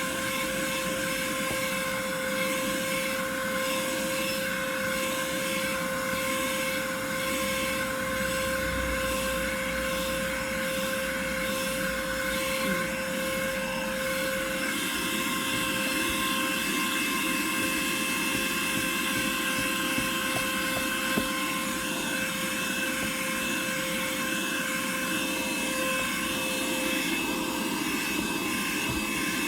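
Small hand vacuum running steadily, a constant motor whine over a rushing of air. A second, higher whine joins about halfway through.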